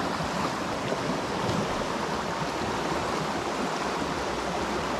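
Creek water running steadily, an even rushing noise without breaks.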